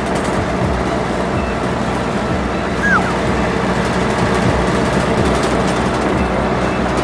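Steady engine sound of a cartoon vehicle running, with a short falling squeak about three seconds in.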